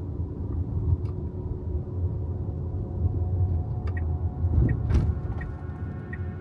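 Low road and tyre rumble inside an electric car's cabin while driving. There is a short knock about five seconds in, and faint regular ticks, about one and a half a second, begin about four seconds in.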